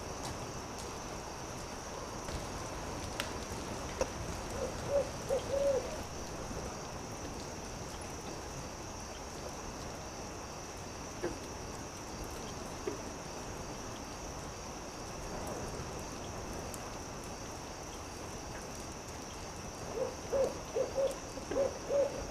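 An owl hooting in quick runs of short notes, once about five seconds in and again near the end, over a steady crackling campfire with a few sharp pops and a steady high hiss.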